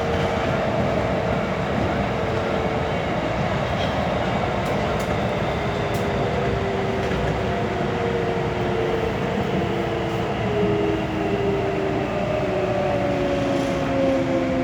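Kintetsu electric commuter train running, heard from inside the front car: a steady rumble of running noise with a motor whine. In the last few seconds the whine's tones slide down in pitch as the train slows.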